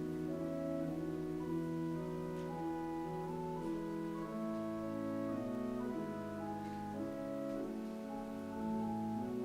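Instrumental music on a keyboard instrument: slow, held chords with a melody moving above them.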